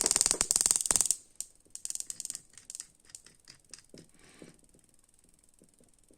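Faulty ignition coil firing across a spark-gap tester: a rapid, even train of sharp spark snaps that stops abruptly about a second in, followed by a few scattered clicks. The spark is weak, the sign of a failing coil.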